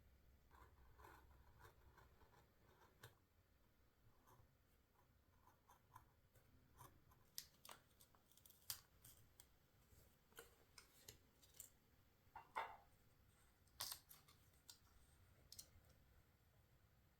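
Scissors cutting paper: quiet, irregular snips and small paper crinkles.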